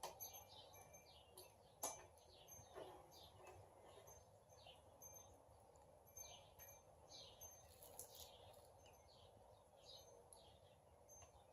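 Faint bird chirps: short, quick downward-sliding notes repeating many times over a quiet steady background hum, with a single sharp click about two seconds in.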